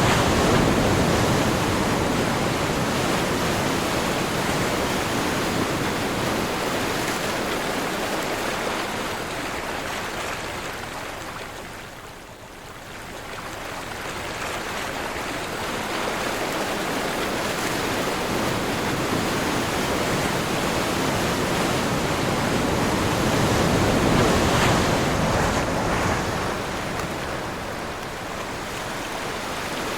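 Ocean surf and wind: waves wash and break in a continuous rush. The surf eases to a lull about twelve seconds in, then builds again to its loudest a little before the end.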